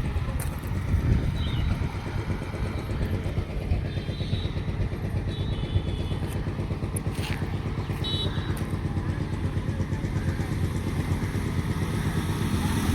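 Motor vehicle engine running steadily, with a few brief high chirps over it.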